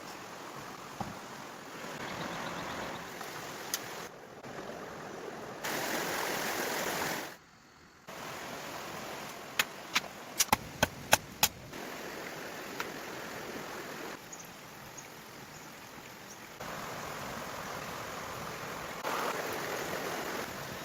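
Running water with a steady rushing sound, broken up by abrupt edits. About ten seconds in comes a quick series of sharp knocks.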